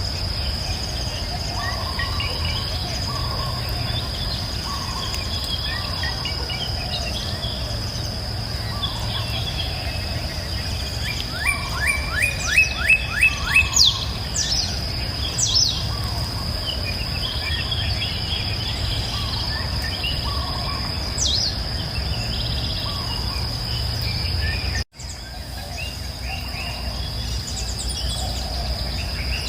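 Scattered wild birdsong over a steady high-pitched insect trill and a low steady rumble. About twelve seconds in, one bird gives a quick run of about seven repeated notes, followed by a few sharp falling whistles. The sound drops out for an instant near the end.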